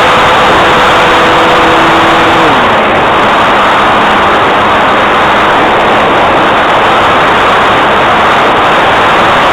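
Cessna 182 light aircraft in flight: loud, steady engine and propeller noise. A tone within it drops in pitch about two and a half seconds in.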